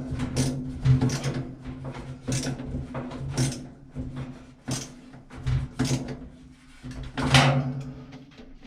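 Flexible aluminium dryer vent duct crinkling and rattling in irregular handfuls as it is worked onto the dryer's exhaust outlet, over a steady low hum.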